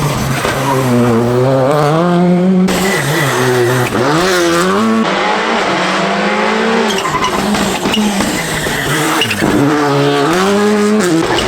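Rally car engine working hard, its pitch climbing and then dropping again and again as the car accelerates, shifts gear and lifts for corners.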